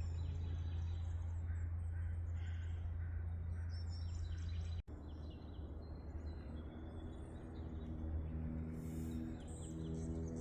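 Forest songbirds chirping and trilling over a steady low rumble. About halfway there is an abrupt cut, and background music with sustained low tones then rises under the birds toward the end.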